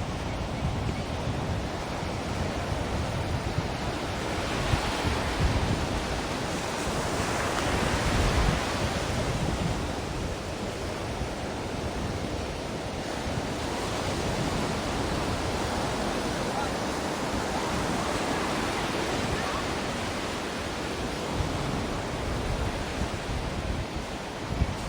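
Ocean surf: a continuous wash of waves that swells and eases every few seconds, with some low rumbling that sounds like wind on the microphone.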